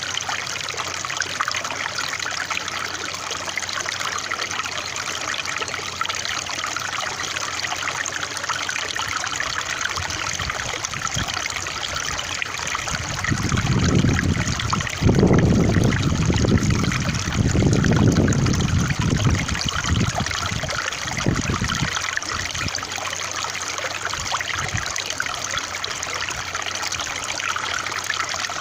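Water trickling and running steadily, like a small stream. About halfway through, a louder low rumble swells and fades several times over some seconds, then the trickle goes on alone.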